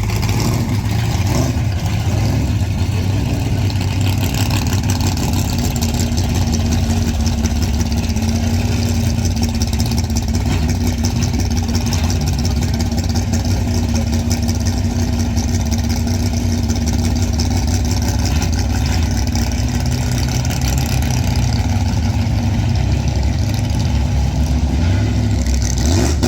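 A car engine running steadily with a deep, even rumble. Right at the end, an engine revs up and its pitch rises.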